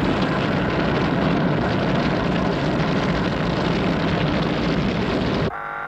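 Loud, steady roar of fire sweeping up the tower's vent shaft, a television sound effect. It cuts off suddenly near the end, where the building's alarm starts to buzz.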